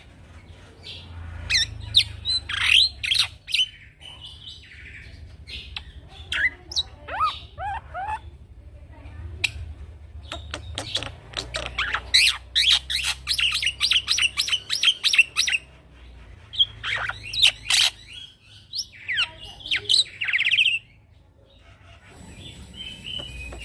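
Young male black-winged myna (jalak putih) in full song: a long, varied string of rapid chirps, whistles and harsh rattling notes, broken by a few short pauses.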